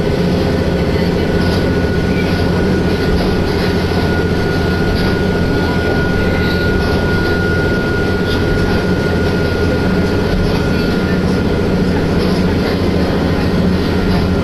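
Diesel railcar running along the line, heard from inside the passenger cabin: a steady loud drone of engine and wheels on rails, with a thin high whine over it.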